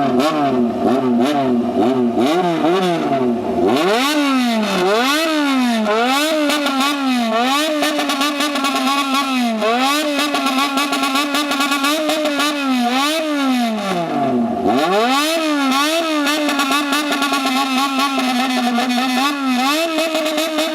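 Motorcycle engine revved in a bosozoku-style throttle call: the engine note rises and falls in quick rhythmic waves, a performed pattern of blips rather than riding. Twice, around 4 s and near 15 s, the revs drop deep and swoop back up before the pattern resumes.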